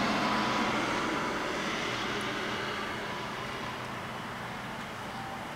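A motor vehicle's engine and road noise passing, fading steadily as it moves away.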